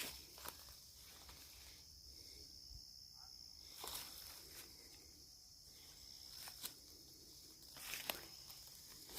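Sparse footsteps crunching on the forest floor, a few steps spaced a second or more apart, over a steady high-pitched insect drone.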